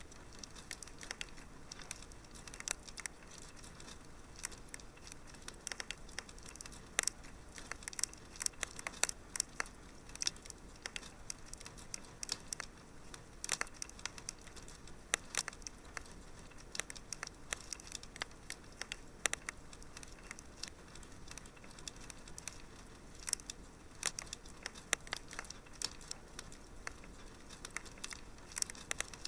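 Wood fire crackling in a fireplace: scattered sharp pops and snaps, several a second, over a faint steady hiss.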